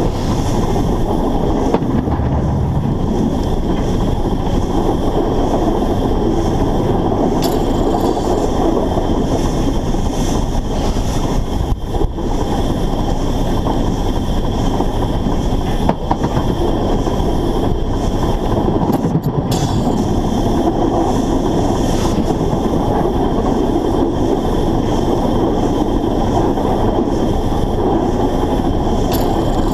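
Narrow-gauge steam locomotive running along the line, heard from right on the engine: a steady, loud rumble of running gear and rails, with a few sharp clicks from the track.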